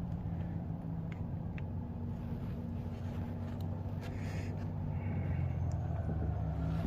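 A steady low engine-like hum, growing a little louder toward the end, with a few faint clicks.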